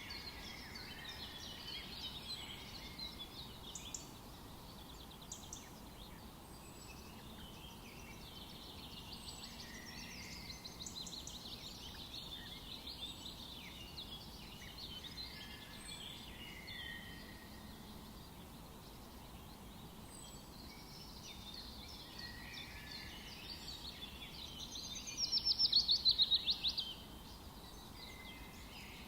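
Several songbirds singing and chirping at once in a forest dawn-chorus ambience, with trills and warbles over a faint steady background hiss. A louder, fast trilling song stands out for about two seconds near the end.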